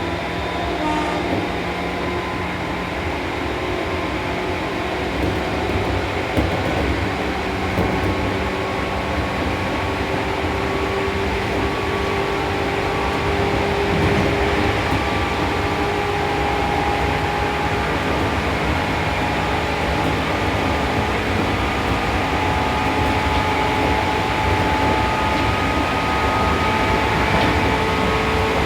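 Seibu New 2000 series electric train running between stations, heard from inside the car: a steady rumble of wheels on rail with faint motor and equipment tones that shift slowly in pitch.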